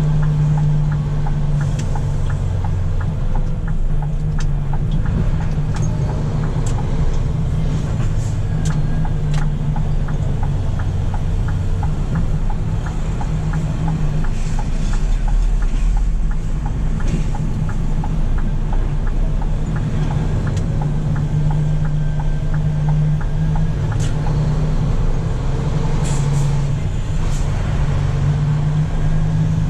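Scania P400 truck's diesel engine running steadily, a continuous low drone, with scattered light clicks.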